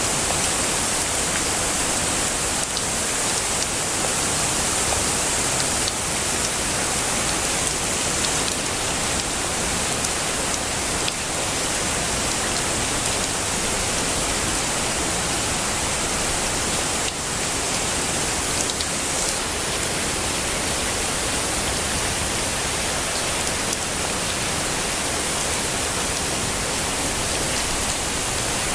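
Heavy rain falling as a steady, even hiss, with a few faint drop ticks.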